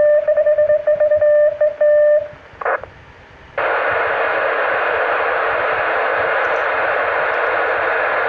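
Two-metre FM radio receiving the repeater: for about two seconds a beep tone is keyed on and off in a Morse-like pattern. After a short burst and a quieter pause, loud steady radio hiss comes in at about three and a half seconds.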